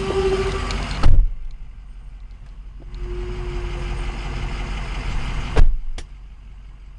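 Ford F250's Power Stroke turbo diesel running at idle, a low rumble with a steady whine, broken by three loud thumps: one about a second in and two close together near the end.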